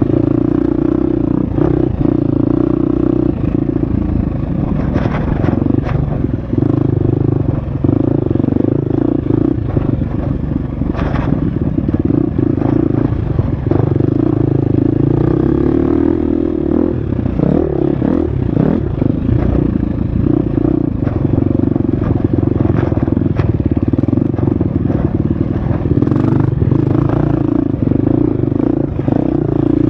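Husqvarna FX 350 dirt bike's four-stroke single-cylinder engine running hard on a trail ride, its pitch shifting briefly as the throttle is rolled off and back on about halfway through. Scattered clattering knocks come in over the engine.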